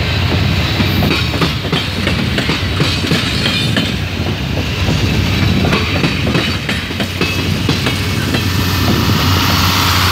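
Passenger train passing close by, its wheels clicking over the rail joints. A diesel locomotive's low engine hum grows louder near the end as it draws level.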